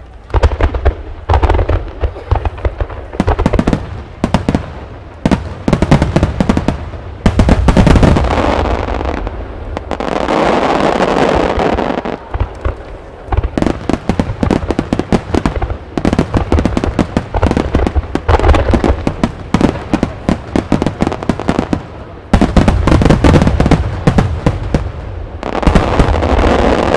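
A large star mine fireworks barrage: aerial shells bursting in rapid succession, many sharp reports, with several stretches where the bursts run together into a continuous rumble and crackle.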